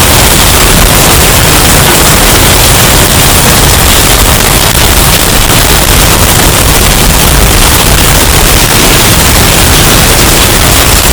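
Hurricane wind-and-storm sound effect, heavily bass-boosted and clipped into a steady, very loud wall of distorted noise with no separate gusts or impacts.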